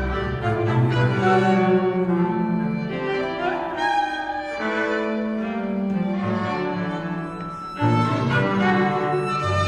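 String trio of violin, cello and double bass playing held bowed notes together. About eight seconds in, the instruments come in suddenly louder after a softer stretch.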